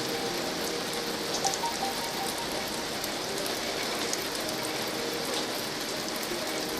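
Steady rain pattering, an even hiss with a few faint ticks.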